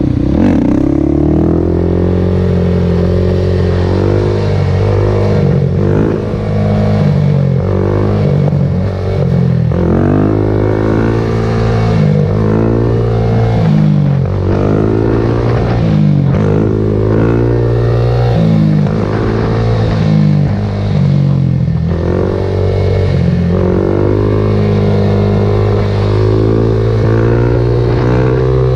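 Kawasaki KFX400 ATV's single-cylinder four-stroke engine revving hard over and over, its pitch climbing and dropping back every couple of seconds.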